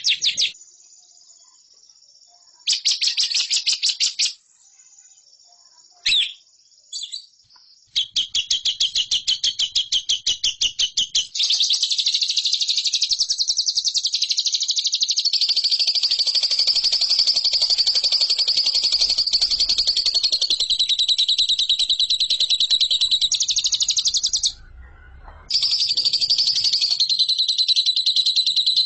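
Lovebird singing in fast, high-pitched trills: short bursts at first, then one long unbroken trilling chatter of the kind prized in contest lovebirds (called 'ngekek'), which breaks off briefly near the end and resumes.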